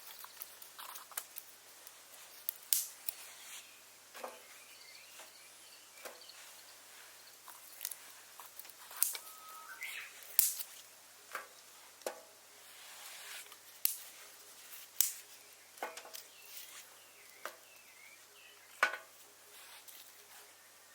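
Twigs and small firewood giving sharp, irregular snaps and cracks, one every second or two, with a few bird chirps behind them.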